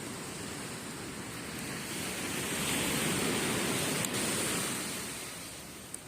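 Ocean wave breaking and washing up the beach, swelling about two seconds in and fading away near the end. Two brief sharp clicks, wood crackles from the campfire, come in the second half.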